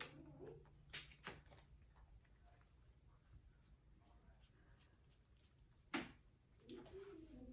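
Near silence with a few light taps and rustles of trading cards being handled and laid on a table, the clearest about six seconds in.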